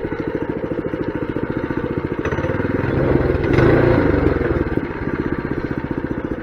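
Mini bike's small single-cylinder engine running with a rapid, even putter. It revs up a little over two seconds in, peaks around four seconds, then eases back to a lower speed.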